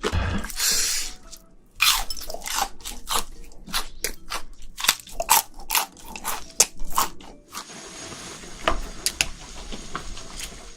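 A person chewing and crunching shrimp close to the microphone: a quick, irregular run of sharp crunches, with a brief lull just before two seconds in.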